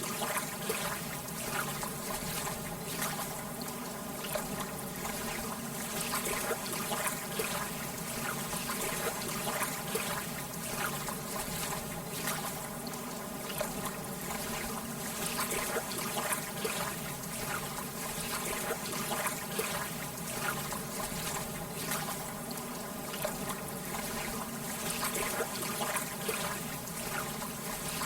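Lake water gently lapping, a steady wash of water dense with small splashes and trickles that keeps up without a break.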